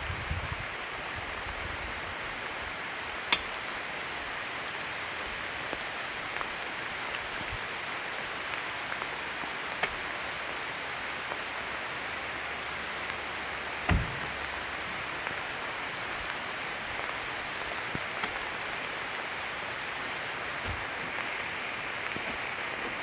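Steady rain hiss, with a few sharp knocks and one heavier thud about 14 seconds in.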